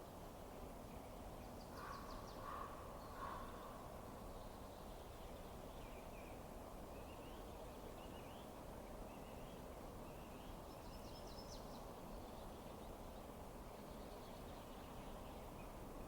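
Faint steady rushing noise with bird calls over it: three short calls about two to three seconds in, then a scatter of brief higher chirps in the middle.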